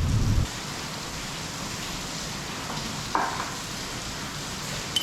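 A low rumble of thunder fading out in the first half second, then the steady hiss of heavy rain.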